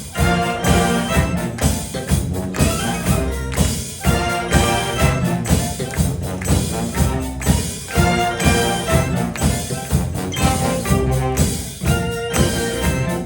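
High school wind band playing an upbeat pop-funk arrangement: brass over drums with a steady, driving beat.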